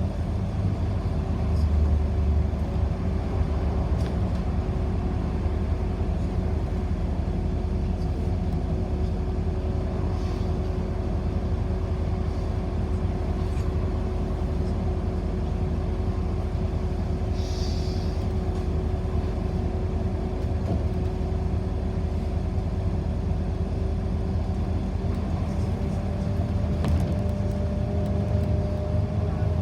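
City bus in motion heard from inside the passenger cabin: a steady low rumble with a steady whine that rises slightly near the end. A short hiss comes about halfway through.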